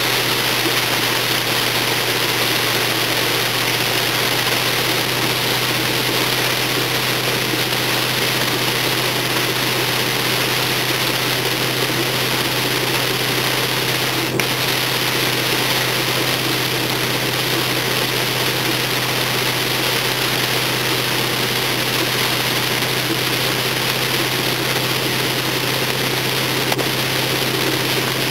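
Car engine running steadily under a constant hiss of rain and water spray while driving through flood water; a single short click about halfway through.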